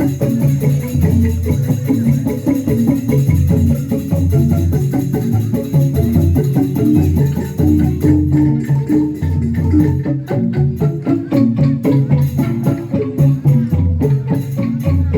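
Instrumental band music in a Javanese gamelan-pop style: hand drum and other percussion keep a quick, steady beat over bass and pitched melody notes, with no singing.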